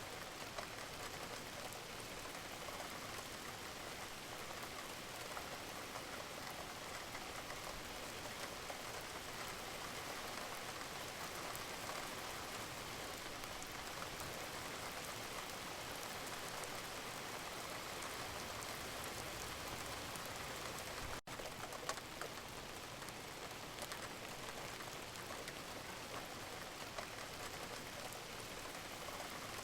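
Steady rain falling, an even hiss with a dense patter of fine drops. There is a split-second gap in the sound about two-thirds of the way through.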